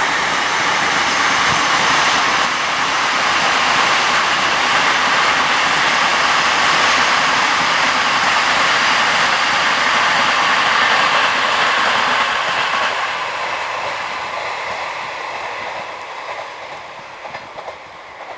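Great Western Railway passenger train passing at speed: a loud, steady rush of wheels on rail that fades away over the last few seconds as it recedes. A few faint rail clicks come near the end.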